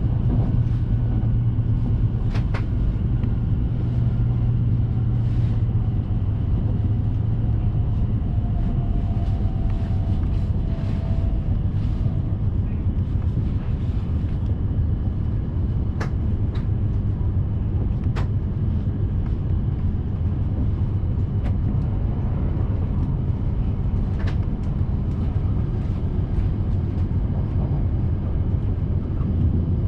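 Steady low rumble of a Hayabusa Shinkansen running at speed, heard inside the passenger cabin, with a few sharp clicks.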